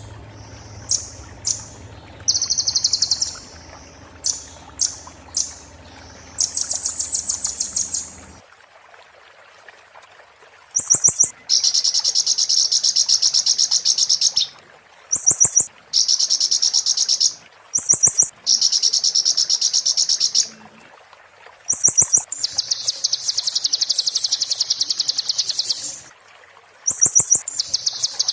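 A small songbird, the 'konin' of a bird-song training recording, singing fast, buzzy, high-pitched rattling trills in repeated bouts of one to three seconds, often led by a short sharp note: the harsh, glassy chatter that keepers call 'muntah beling'. A low steady hum sits under the song for the first several seconds.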